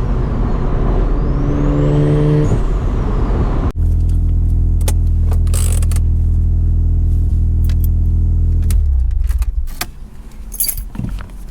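Car engine under way, pulling up in pitch as it accelerates, then idling steadily. It shuts off about nine seconds in, leaving scattered clicks and knocks.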